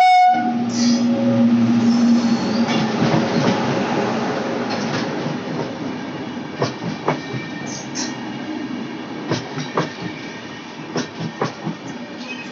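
A passing express train: a brief horn sound at the very start, then a loud rumble that slowly fades. From about halfway, the wheels knock sharply over the rail joints in an uneven run of clacks.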